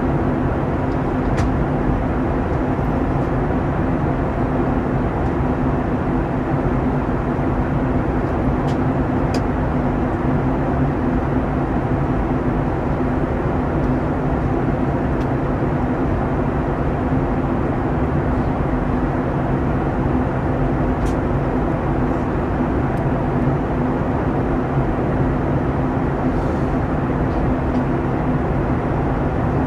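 Steady cabin noise of a Boeing 737-900ER in flight: the drone of its CFM56-7B turbofans with a low steady hum over the rush of air, and a few faint ticks.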